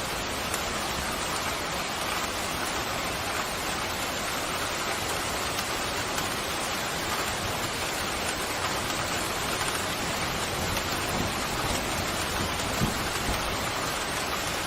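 Pouring rain: a steady, even hiss of dense rainfall.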